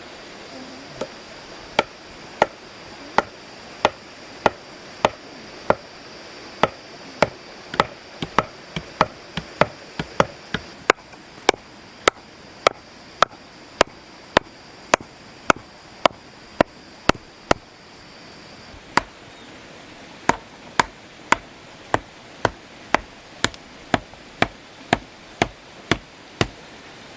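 Steady, repeated chopping of wood with a blade, about one and a half strokes a second, with a short break in the middle.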